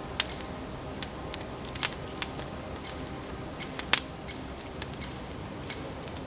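Campfire crackling: irregular sharp pops and snaps over a steady low hiss, the loudest pop about four seconds in.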